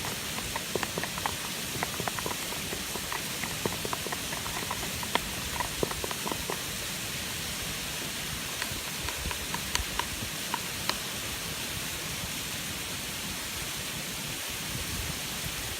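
Food frying over a campfire: a steady sizzling hiss with scattered small pops and crackles.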